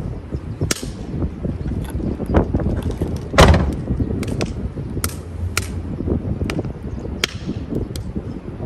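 Strong wind rumbling on the microphone, with a series of sharp, irregular cracks and snaps over it; the loudest crack comes about three and a half seconds in.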